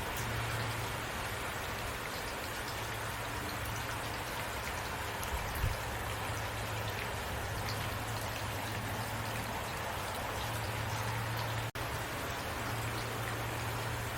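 Heavy rain falling steadily, an even hiss of drops over a steady low hum. There are a couple of soft low thumps about five and a half seconds in, and a split-second dropout near the end.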